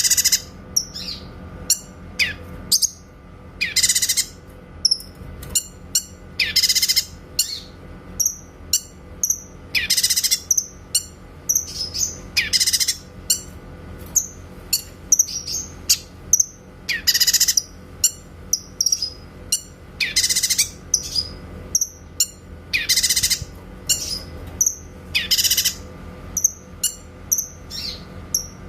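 Cucak kinoy singing, repeating loud, sharp, shot-like calls every two to three seconds with short high chirps in between, over a faint steady hum.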